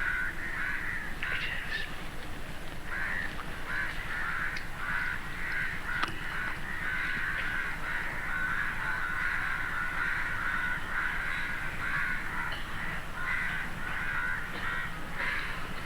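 Crows cawing: a steady chorus of many overlapping calls.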